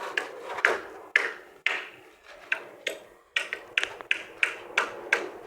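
Hammer blows on wood, about a dozen sharp strikes at an uneven pace, some with a short ringing ping, as nails are driven in carpentry work.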